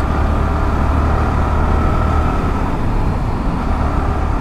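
Sport motorcycle engine running steadily while cruising in sixth gear at about 60 km/h, with wind and road noise around it.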